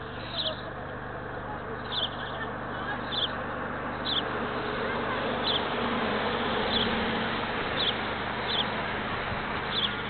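A small bird repeating a short high chirp about once a second, over a rushing background noise that swells through the middle.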